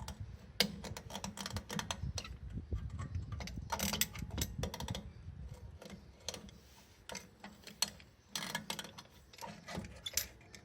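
Irregular small metallic clicks and scraping as a drum-brake shoe hold-down spring cup is pressed and turned on its pin to release it, with the busiest clicking about four seconds in and again near the end.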